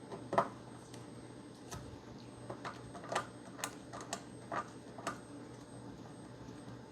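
Irregular sharp clicks and taps of a screwdriver and small metal parts being handled while an Xbox One S heat sink is taken off, about a dozen in all, the loudest just under half a second in.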